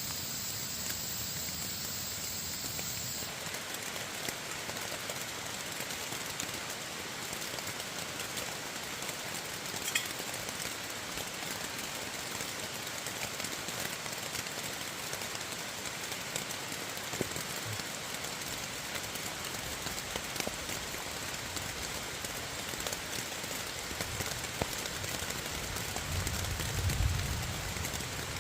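Steady rain falling, an even dense hiss, with a brief low rumble near the end.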